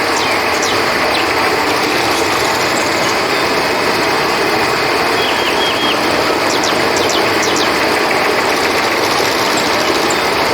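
River water flowing in a steady rush, with small clusters of short, high chirps near the start and again about six to seven seconds in.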